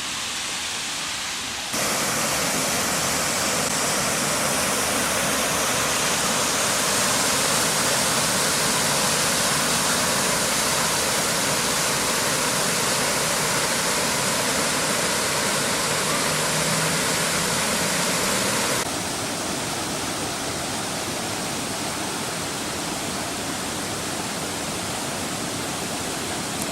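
Waterfall rushing: a steady, even roar of falling water that steps up abruptly about two seconds in and drops back near the end.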